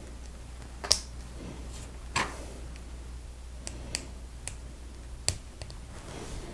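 Plastic Lego pieces clicking and knocking as they are handled and pressed together: about half a dozen short, sharp clicks at irregular intervals.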